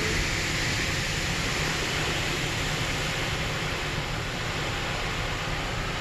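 Steady hiss of car-wash water spray pelting the car, heard from inside the cabin.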